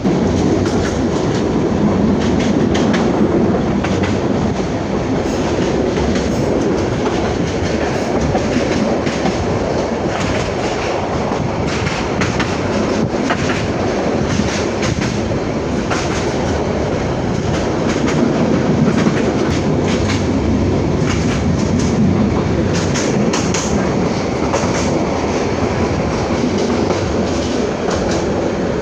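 Passenger train running steadily, its wheels clacking over the rail joints.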